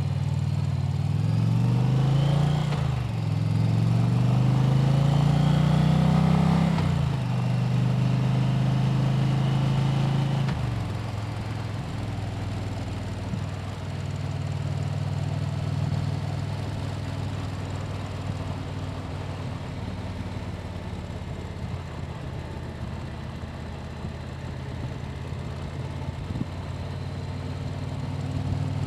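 Motorcycle engine accelerating: its pitch climbs, drops briefly at an upshift about three seconds in, climbs again, then falls back after about seven seconds to a steady cruise.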